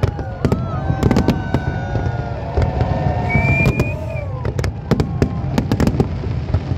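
Aerial fireworks bursting in quick succession: a dense string of sharp bangs and crackles over a constant low rumble, with several long, slightly gliding tones sounding alongside.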